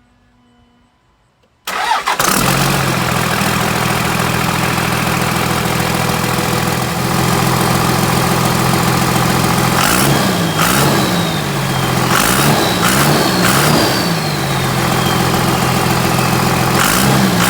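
Turbocharged Dodge Ram engine starting cold about two seconds in and running loud with the exhaust pipe off the turbo. It is revved in several short blips between about ten and fourteen seconds, with a falling turbo whistle, and revved again near the end.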